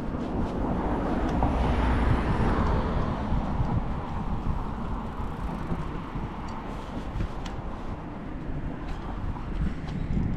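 A road vehicle driving past, its noise swelling to a peak about two seconds in and then falling away, over a steady low rumble.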